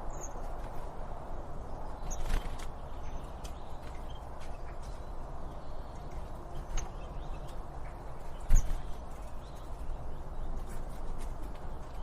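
Birds giving a few brief, high chirps scattered over a steady low ambient rumble, with a sharp thump about two-thirds of the way through as the loudest sound.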